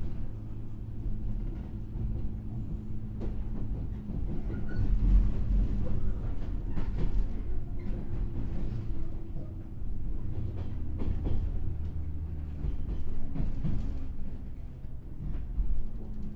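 Interior running sound of a JR 103-series electric train's motor car: MT55 traction motors humming under the floor over a heavy rumble, with wheels knocking over rail joints now and then.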